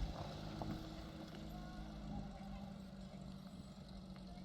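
An engine running steadily, a low even hum with no change in pitch.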